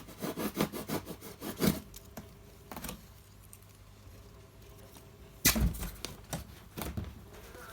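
A blade cutting a round hole in a polystyrene foam box: a quick run of short cutting strokes for about two seconds, then one sharp knock a little past halfway, followed by a few light taps and clicks.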